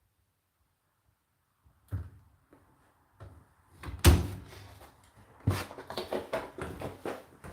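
Tumble dryer doors being handled: silence, then a run of thuds, knocks and clatter starting about two seconds in, with the loudest thump about four seconds in.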